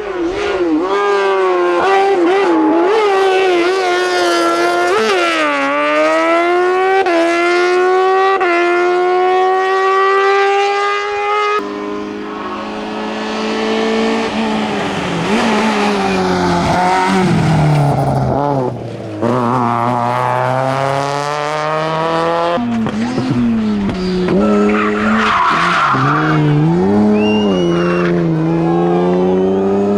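Hillclimb race cars at full throttle, engines revving up through the gears, each upshift marked by a quick drop in pitch before the next climb. The engine note changes abruptly twice, as a different car is heard each time.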